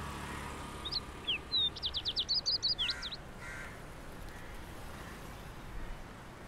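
Birds calling: from about a second in, a quick run of high, sweeping chirps lasting about two seconds, then a couple of short, harsher calls.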